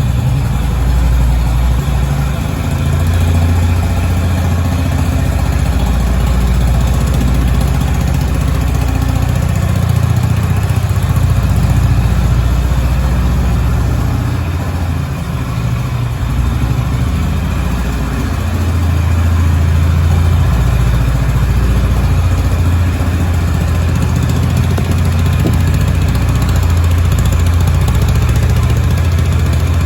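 Honda GB350 S single-cylinder engine idling steadily, heard from the exhaust with a deep, even note.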